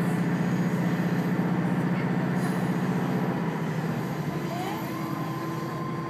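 Diesel railcar running, heard from inside the passenger cabin with its windows open: a steady low engine drone over track noise. A little past halfway the drone eases and a thin whine rises, then holds steady.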